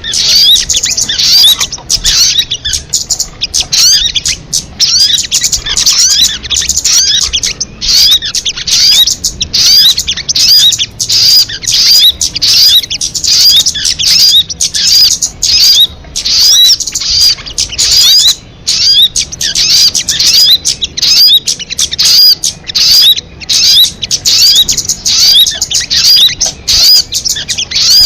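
Loud, continuous song of a sogon (kamade) bird: rapid high chirps and twittering in phrases of about a second, repeated over and over with short breaks, as in a bird-call recording looped for luring or training songbirds.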